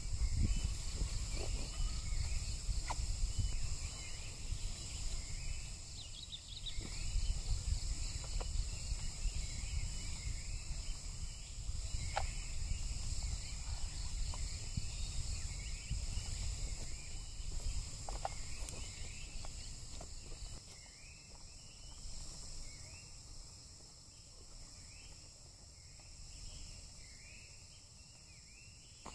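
Steady chorus of insects, several high continuous tones held without a break, with scattered short chirps and a few sharp clicks. A low rumble underneath fades about 20 seconds in.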